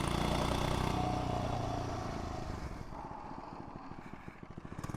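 99cc four-stroke mini bike engine running under way, then dying down over the second half to a quieter, slower putter of separate firing pulses.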